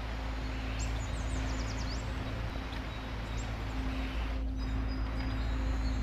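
A small bird sings one short phrase of quick high whistled sweeps about a second in, over a steady outdoor background hiss with a faint low hum.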